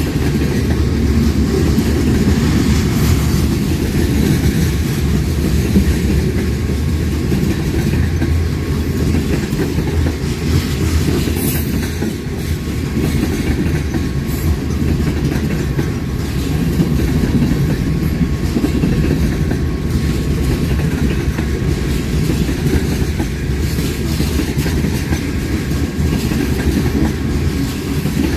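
A train rolling steadily past at close range: a continuous deep rumble of railroad cars, with the clickety-clack of wheels over the rail joints.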